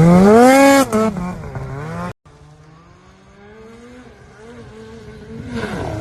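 Snowmobile engine revving hard, its pitch rising and then falling, until the sound breaks off abruptly about two seconds in. A quieter engine then climbs slowly in pitch before revving loudly again near the end.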